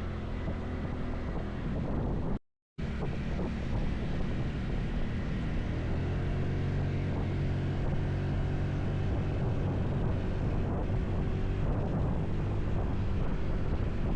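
Motorcycle engine running steadily under heavy wind noise on the microphone, with the sound cutting out completely for a moment about two and a half seconds in.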